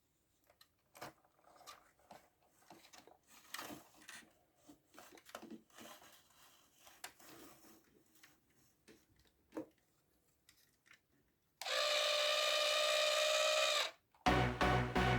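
Small scattered clicks, taps and rubbing from handling a toy model car, then a loud steady tone lasting about two seconds, and music with a steady beat starting near the end.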